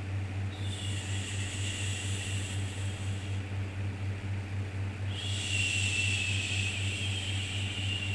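A looped 'shhh' shushing sound for soothing a baby: two long shushes, the first starting just under a second in and lasting about two seconds, the second starting about five seconds in and still going at the end. A steady low hum runs beneath.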